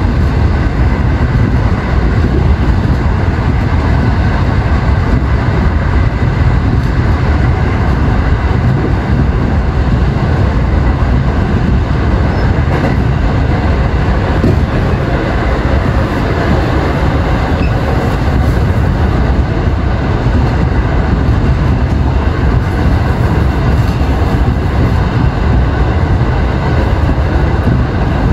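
Kintetsu electric train running at speed through a tunnel, heard from inside the car: a steady, loud rumble of wheels on rail and running gear, heaviest in the low end.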